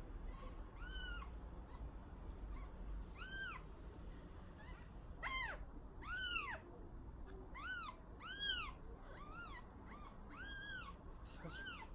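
A week-old kitten meowing: about ten short, high-pitched cries, each rising and falling in pitch. They are spaced a second or two apart at first and come faster in the second half.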